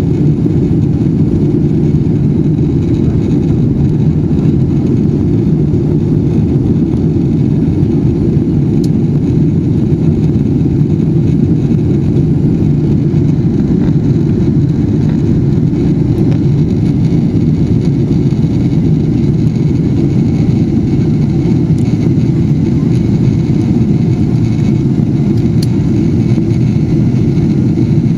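Boeing 777-300ER's GE90 jet engines with airflow, a steady deep noise that holds an even level throughout.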